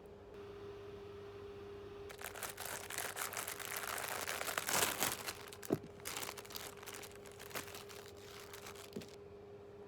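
Packaging crinkling and rustling as it is handled and opened by hand. The sound builds for several seconds with a couple of small knocks, over a faint steady hum.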